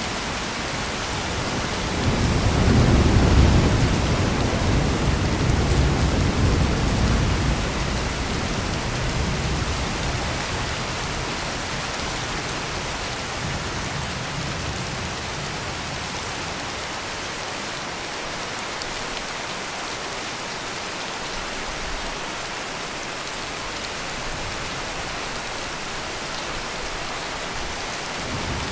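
Heavy steady rain pouring, with a deep roll of thunder that swells about two seconds in and rumbles away over several seconds, leaving the rain alone.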